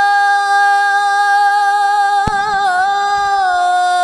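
A male Quran reciter's voice holds one long melodic note on the drawn-out vowel of "lā" in a tajwid-style recitation. Just past the middle the note wavers in a brief ornament, then settles a little lower and is held again. A sharp click sounds just after two seconds in.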